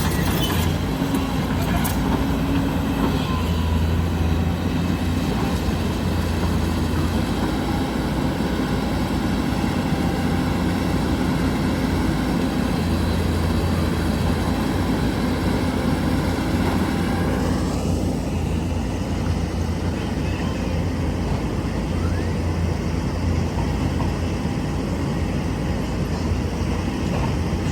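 Hyundai hydraulic excavator's diesel engine running steadily, with a higher hiss over it that drops away about two-thirds of the way through.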